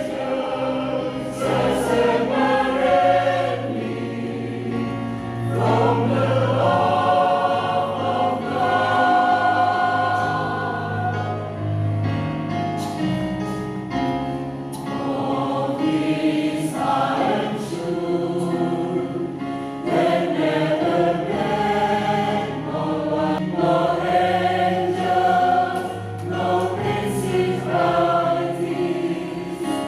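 Church choir singing a gospel song in harmony, several voice parts holding chords together, swelling and easing in loudness.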